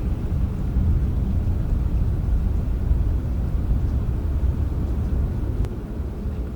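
Rainstorm ambience dominated by a low, continuous rumble of distant thunder, easing slightly near the end. A single sharp tick comes a little over five seconds in.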